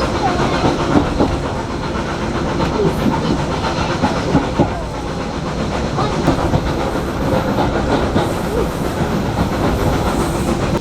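Steam-hauled heritage railway carriage running along the line, heard from inside: a steady rumble and rattle with irregular clicks from the wheels and the carriage.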